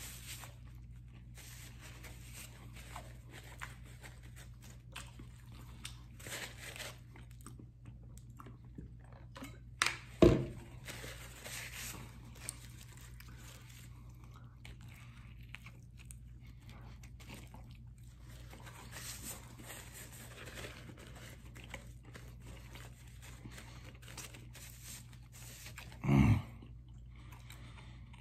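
A man chewing and biting food close to the microphone, with faint wet mouth sounds over a steady low hum. A sharp knock comes about ten seconds in, and a short low thump near the end.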